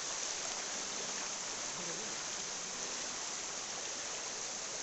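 Steady, even rush of flowing water from a forest stream or waterfall.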